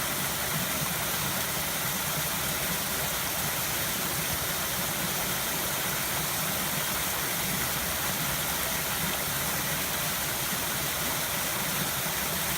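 River water flowing and rushing in a steady, even hiss.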